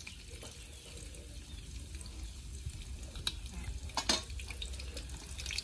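Tofu frying in oil with a steady sizzle, broken by a few sharp clicks, the loudest about four seconds in.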